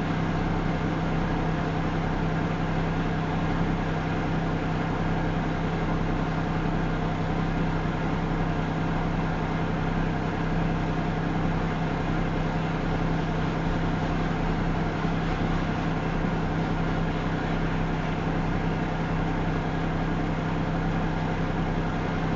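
Steady engine and road noise heard from inside a car driving at about 24 mph, a constant low hum with an even rumble and no changes.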